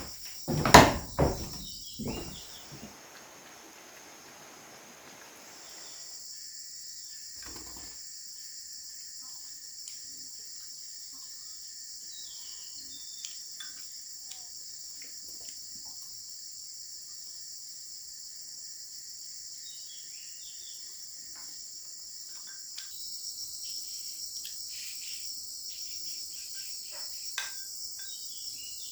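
Insects chirring steadily in a high, continuous chorus, with a thinner steady tone from a second insect through the middle. About a second in, a few loud knocks stand out above it.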